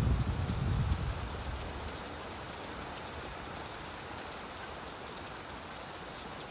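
Steady rain. A low rumble of distant thunder dies away over the first second or two.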